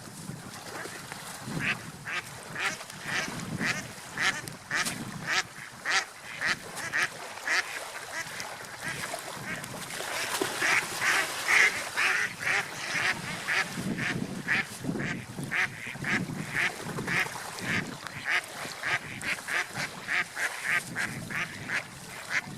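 Ducks quacking in a long run of short calls, about two a second.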